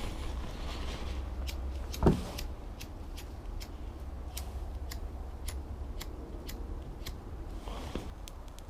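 A spliff being lit with a lighter. Scattered faint ticks run over a low steady rumble, with one louder knock about two seconds in.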